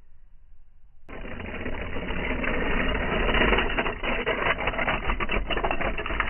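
1/64 diecast toy cars rattling in a dense, rapid clatter of small clicks that starts abruptly about a second in.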